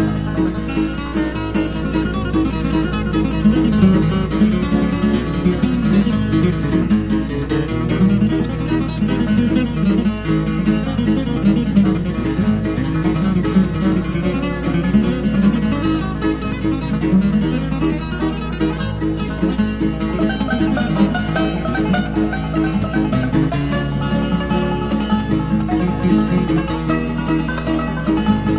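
Instrumental bluegrass from a string band of banjo, guitar, mandolin and bass, with no singing.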